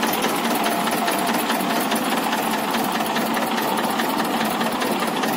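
Tractor engine running steadily with a fast, even clatter.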